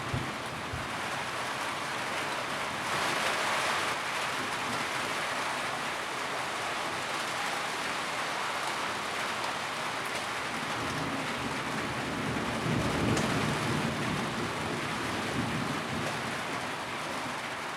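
Steady rain drumming on a tin roof, with a brief swell in the rain a few seconds in and a low rumble rising and fading past the middle.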